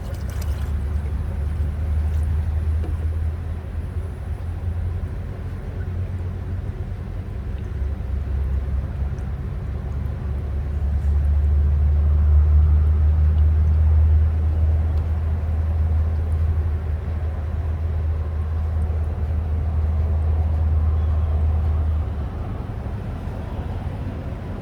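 Vehicle engine running with a steady low hum. It grows louder around the middle and drops back down a few seconds before the end.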